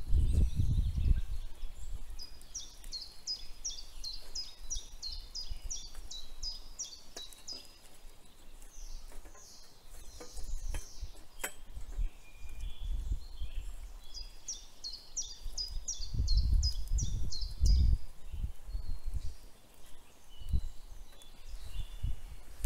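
A songbird singing two long runs of evenly repeated high chirps, about three a second, over intermittent low rumbles and a few sharp clicks.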